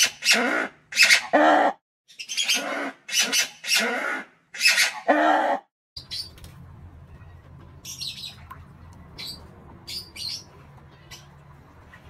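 Bird calls: a run of loud, harsh, pitched calls, about two a second, for roughly the first half. Then, after a sudden cut, short high chirps over a faint low hum.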